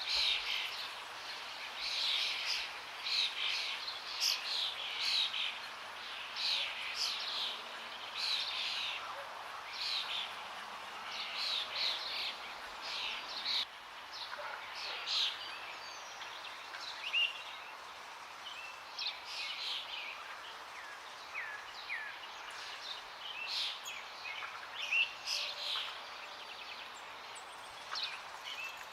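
Several forest birds chirping and singing in quick, short, often downward-sliding notes over the steady rush of flowing water. The calls come thickly in the first half, thin out around the middle, and pick up again near the end.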